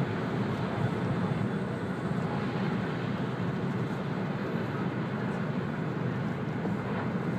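Steady running noise inside the passenger cabin of an E2-series Shinkansen travelling at speed: a low, even rumble.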